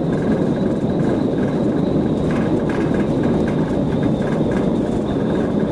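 Steady, even rumble of a moving vehicle's engine and road noise.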